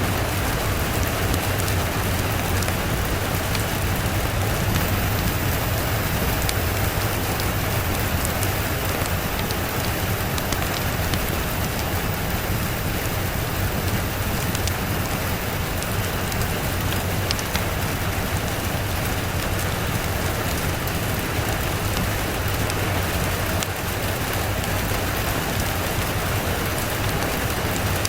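Steady rain falling, an even hiss of rain on a surface with scattered faint sharp ticks of individual drops, unchanging in level throughout.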